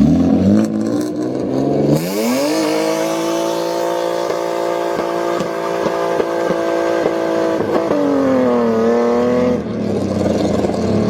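Modified car's engine revved hard and held at high revs for about six seconds, with brief breaks about twice a second. It then drops, falls and climbs again, and cuts off near the end.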